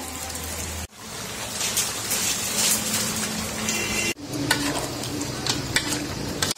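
Duck curry sizzling in a metal pot while a spoon stirs it, scraping and clicking against the pot, as the liquid cooks off.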